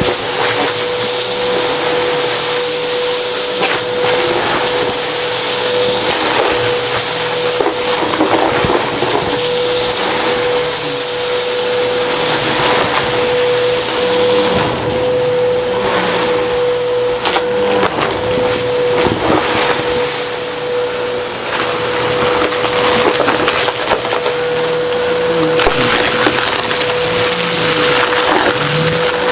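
Vacuum cleaner running with a steady motor whine while sucking up crunchy dry debris, which rattles and clicks through the nozzle.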